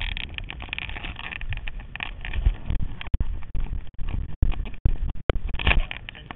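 Harley-Davidson XR1200 race bike's air-cooled V-twin engine running at idle, an uneven low rumble, mixed with knocks and rustle on the rider-worn camera's microphone. The sound cuts out briefly several times in the second half.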